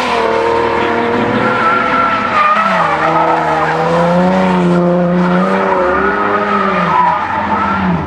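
Car engine held at high revs while the car spins its tyres, the tyres squealing and smoking. The pitch wavers up and down without ever dropping away.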